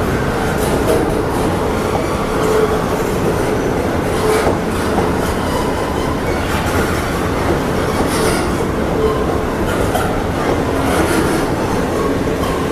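Freight train cars rolling past steadily, wheels clattering over the rails with faint intermittent wheel squeal.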